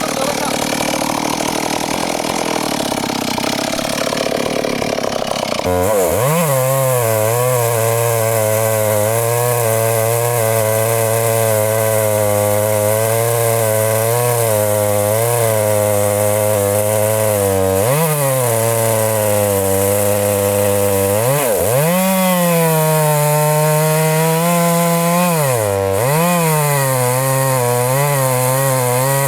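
Two-stroke chainsaw cutting into a very large tree trunk. About six seconds in it goes up to full throttle and runs steadily, its pitch sagging and recovering a few times as the chain bogs down in the thick wood.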